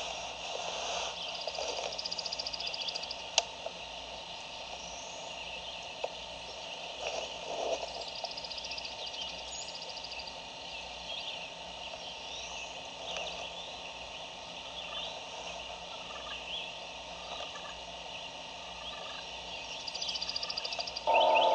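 Woodland birdsong, many small birds chirping, with a wild turkey gobbling faintly in the distance, so quiet it is barely heard. A louder sound comes in right at the very end.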